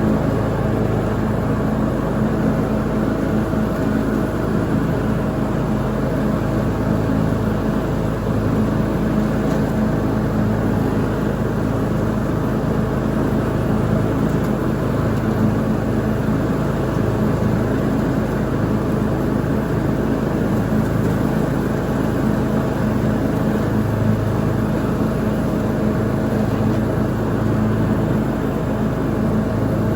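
Lawn mower engine running steadily under load while mowing, an even drone with no letup.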